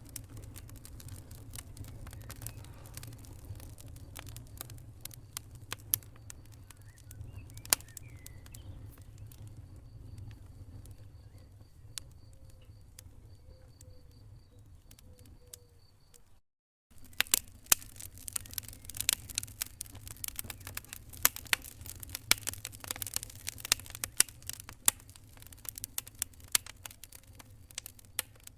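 Wood fire crackling in a fireplace: irregular sharp pops and snaps over a low steady rumble of the flames. The sound cuts out for about half a second some sixteen seconds in, and the crackling is denser and louder after it.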